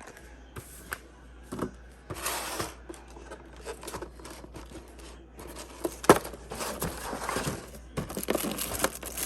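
Plastic packaging being torn and crinkled, with irregular swishes and sharp clicks and knocks; a sharp click about six seconds in is the loudest.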